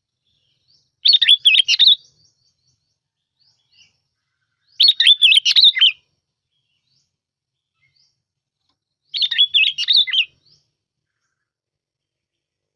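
Bông lau bulbul singing three short, bright, warbling song phrases, each about a second long, spaced about four seconds apart.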